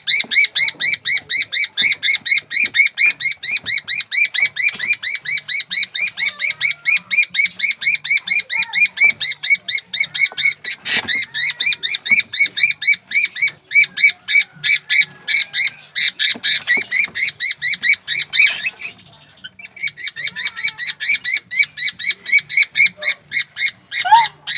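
Baby bird chirping rapidly and without let-up, about four short descending peeps a second, with a brief break about three-quarters of the way through: the distress calls of a chick being eaten by a water monitor.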